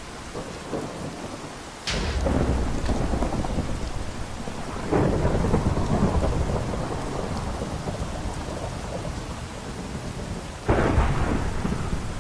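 Steady rain with thunder: a sudden crack about two seconds in, another about five seconds in, and a third near the end, each followed by a deep rumble that slowly fades.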